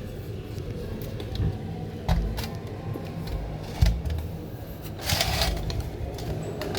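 Parts of an electric water heater being handled on a workbench: scattered clicks and knocks, a sharper thump about two seconds in and another about four seconds in, and a brief scrape about five seconds in, over a steady low hum.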